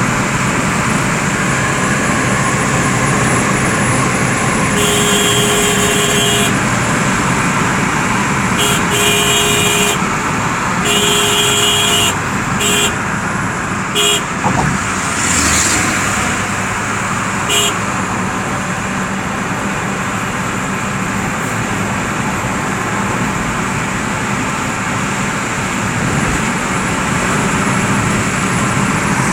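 Steady road-traffic noise with a vehicle horn honking several times: three long honks, then a few short toots.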